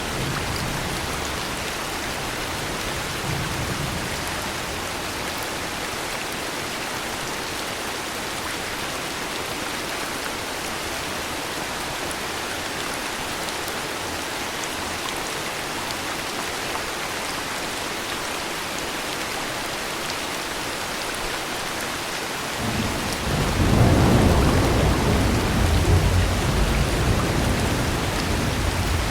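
Steady heavy rain falling, with a long low rumble of thunder rolling in about three quarters of the way through and still going at the end.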